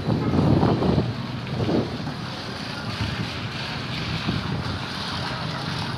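Wind buffeting the microphone over a low rumble, strongest in the first second and again briefly near two seconds in.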